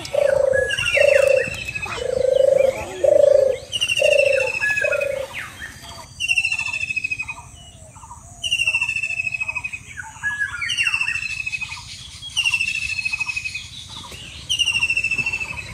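Birds calling: a high, fast-trilled descending call repeats about every two seconds, with other chirps around it. During the first five seconds or so a lower call sounds about six times.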